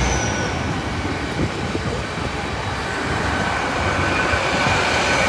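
LNER Azuma Class 800 train rolling slowly past over the level crossing, its wheels running on the rails. A low rumble drops away at the very start, and a faint high squeal joins in from about halfway.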